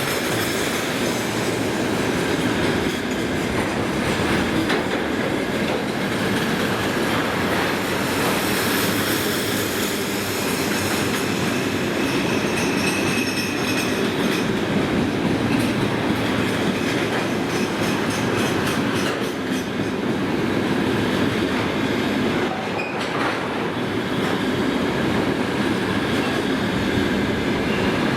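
Container freight train rolling steadily past at speed: continuous wheel-on-rail rumble with a rhythmic clatter of wheels over rail joints.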